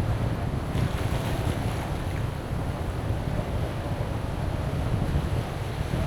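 Strong wind buffeting the microphone with a heavy, uneven low rumble, over the steady wash of surf on a beach. A brief rush of brighter hiss comes about a second in.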